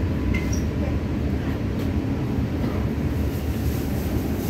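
Steady low rumble inside the cabin of an MTR Tung Chung Line K-Train running at speed between stations: wheels on the track and the train's running gear.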